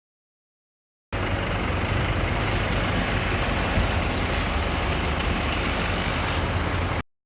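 Scania P270 truck's diesel engine running steadily at idle. It cuts in about a second in and cuts off abruptly near the end.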